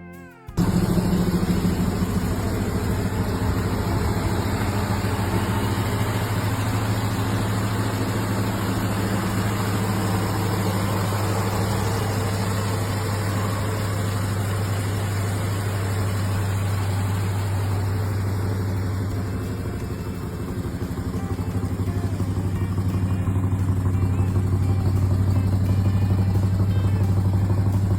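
Chevrolet 305 small-block V8 running steadily through a dual exhaust, with a slight dip about two-thirds of the way through and then getting louder.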